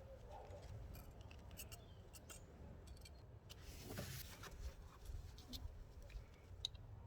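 Faint, scattered small clicks and light clinks, as of small metal parts and tools being handled, over a low background rumble.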